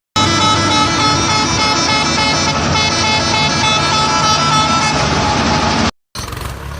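A loud horn-like sound of several steady tones held for about six seconds, starting and stopping abruptly as an edited-in clip.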